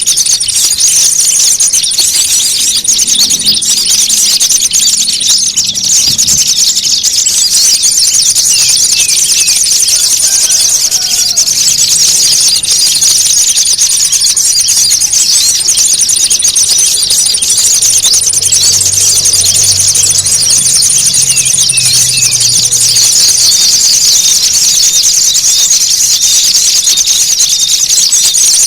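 Dense, continuous high-pitched chattering and twittering of many small songbirds calling at once. A thin high whistling tone comes and goes several times over it. It is a noisy 'pikat ribut' lure recording, used by bird trappers to draw small birds in.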